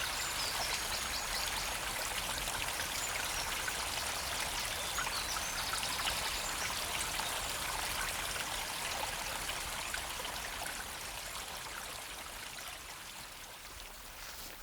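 River water flowing and trickling, a steady rush that fades somewhat over the last few seconds.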